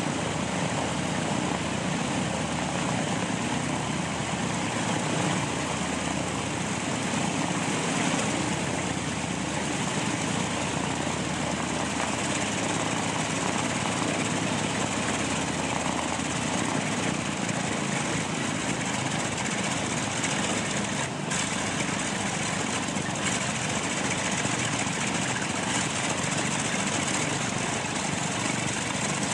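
Propeller aircraft's piston engines running steadily during a ground run-up.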